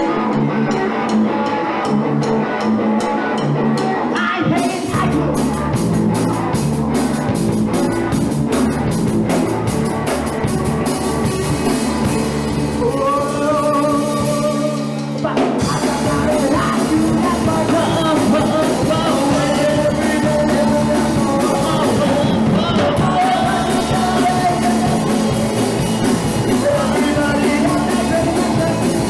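Live punk rock band playing a song: bass guitar, electric guitar, drum kit and singing. The drums and cymbals come in about four seconds in.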